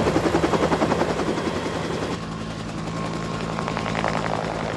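Helicopter in flight: fast rhythmic beating of the rotor blades over a steady engine hum, the beat louder for the first two seconds and then easing.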